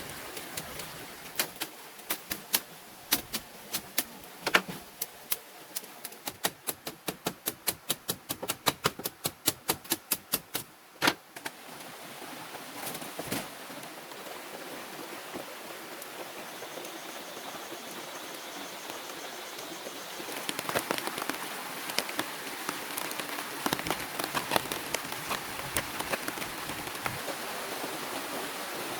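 A run of sharp knocks that speeds up to about four a second and stops about eleven seconds in. After that comes a steady hiss with scattered small ticks, which grow denser near the end.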